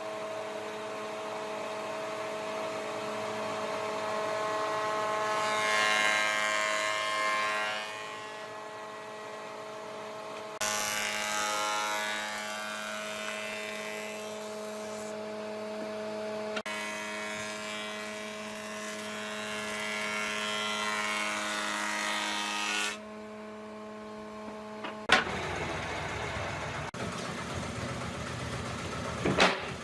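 A woodworking power tool's motor running with a steady hum, with noisier stretches while it works the wood. The sound changes abruptly several times, as if separate clips were cut together. Near the end comes a rougher, noisier stretch with a sharp knock.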